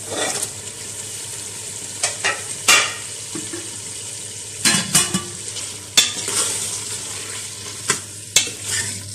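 Raw chicken pieces sizzling in hot oil and masala in an aluminium pot, a steady frying hiss, with a metal spoon knocking and scraping against the pot several times as the chicken is stirred.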